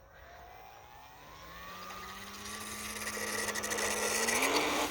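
Electric motor and propeller of a 3D printed RC model plane spooling up as the throttle is advanced for a takeoff roll. The pitch rises, holds, then climbs again near the end, getting steadily louder, with rattling clicks building toward the end.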